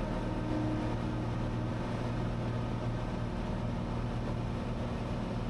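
Cessna 182's six-cylinder piston engine and propeller droning steadily in flight.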